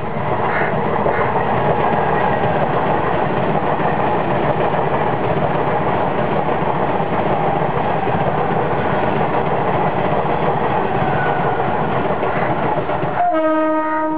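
Mumbai suburban local electric train passing at speed: a loud, steady rumble and clatter of its wheels on the rails. Near the end a train horn sounds one pitched blast of about a second.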